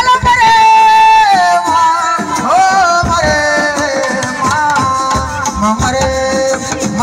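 Live assiko band music: a voice holding long notes that glide up and down, over drums and a shaker.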